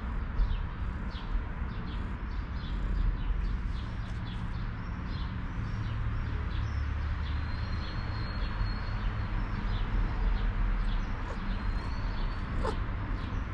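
Small birds chirping over and over, with a few brief high whistles, over a steady low outdoor rumble.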